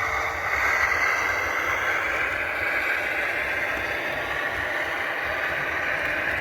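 Steady diesel engine sound from a model locomotive's DCC sound decoder, played through its small onboard speaker.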